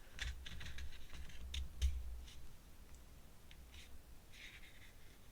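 Light clicks and scratching of pen and ink tools working on paper, with dull knocks against the table during the first two seconds, then fainter scratching near the end.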